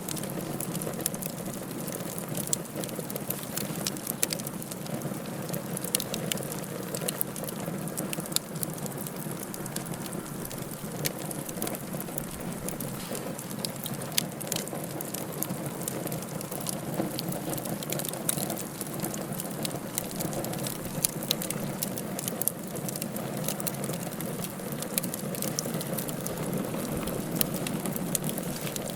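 Wood fire burning in a fireplace: a steady rushing hiss with frequent, irregular sharp crackles and pops.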